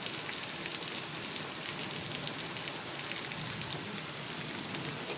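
Steady heavy rain from a thunderstorm: an even hiss of falling rain dotted with many small drop ticks.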